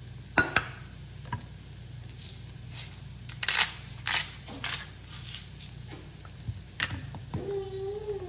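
Spice shaker shaken over raw ground turkey in a run of quick hissy bursts, set off by sharp clicks before and after. Near the end comes a brief steady hum-like tone.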